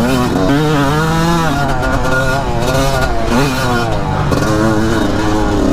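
Yamaha YZ250 two-stroke dirt bike engine running hard while ridden, its pitch climbing and dropping again and again.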